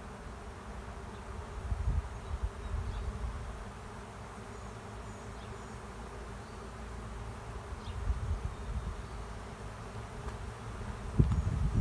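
Honey bee swarm buzzing steadily as the bees fly around a hive. Low rumbles swell up about two seconds in, around eight seconds, and again near the end.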